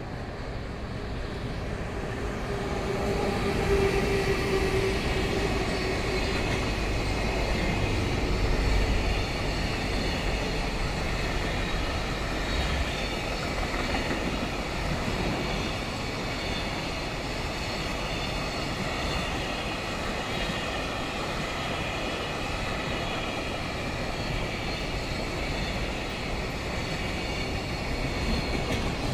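Container flatcars of a freight train rolling past close by, a steady rumble of steel wheels on rail that swells over the first few seconds and then holds. A faint high squeal from the wheels runs along with it.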